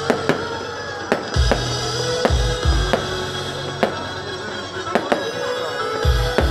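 Fireworks going off in a display: sharp bangs and cracks every second or so, over loud music with a heavy bass.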